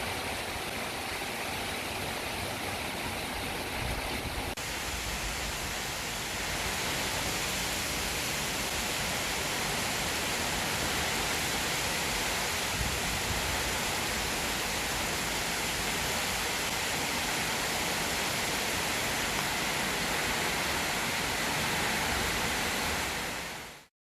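Steady rushing noise that grows slightly louder about five seconds in and cuts off abruptly near the end.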